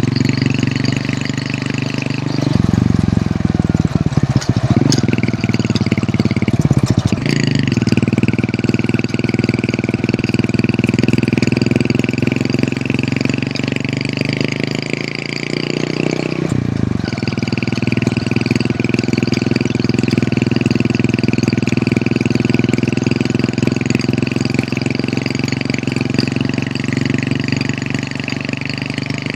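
Hero Honda CD100's small single-cylinder four-stroke engine running on the move, its note breaking and changing pitch a few seconds in and again around the middle before settling back to a steady run.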